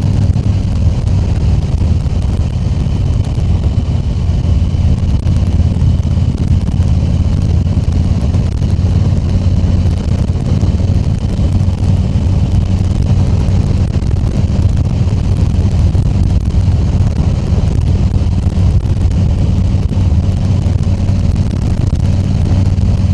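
Harley-Davidson Tri Glide Ultra's V-twin engine running steadily at cruising speed, with wind rushing over the helmet microphone.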